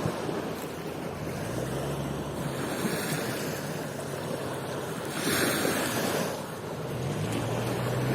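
Sea waves washing onto a beach, a steady rush with one louder surge about five seconds in. A low steady hum comes and goes beneath it.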